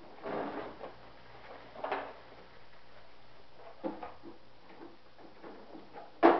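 Parts and packing being handled by hand during unboxing: short rustles, light knocks and clicks, then one sharp knock near the end, the loudest sound.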